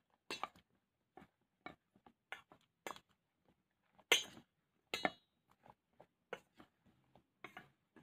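Metal spoon clinking against a stainless steel bowl as flour-coated eggplant slices are stirred. There are irregular short clinks about every half second, and the loudest come a little after four seconds and at five seconds.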